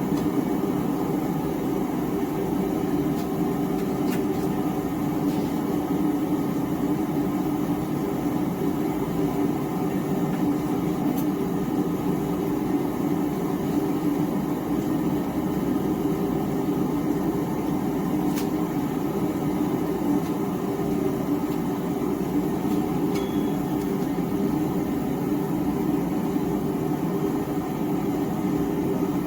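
Small gas forge's burner running with a steady, even rush.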